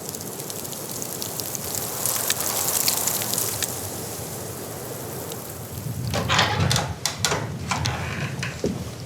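Steady hiss of storm wind and driven snow with fine ticking, growing slightly louder. About six seconds in it gives way to a run of irregular knocks and scrapes from something being handled.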